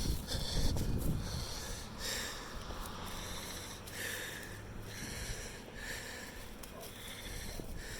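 Crows cawing: short harsh calls repeated every second or two.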